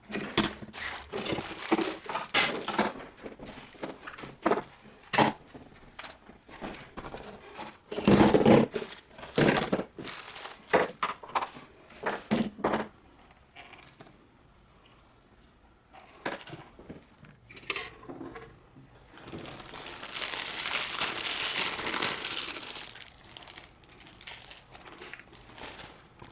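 Handling noise of plastic parts and packaging: a run of irregular clicks and knocks, then several seconds of crinkling rustle that swells and fades.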